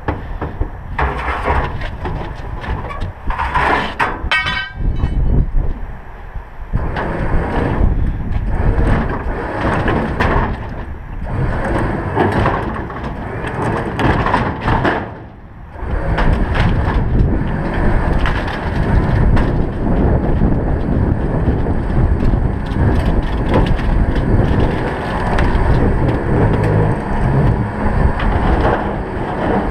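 A heavy metal gas pump being winched up plywood-covered trailer ramps, with irregular knocks, creaks and scraping of metal on wood and a quick run of clicks about four seconds in. Wind buffets the microphone throughout.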